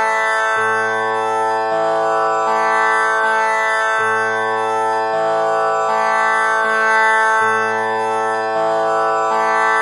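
Tanpura drone tuned to A as the tonic (6 kattai), its four strings plucked one after another in an unbroken cycle that repeats about every three and a half seconds, each string ringing on under the next.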